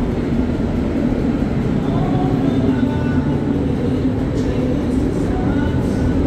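Steady, loud mechanical rumble and hum that does not change.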